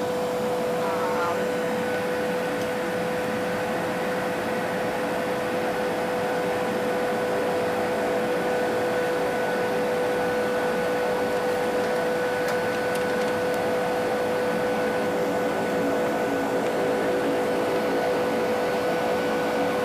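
Small passenger plane's engines running steadily, heard from inside the cabin: an even drone with a constant whine, growing slightly louder.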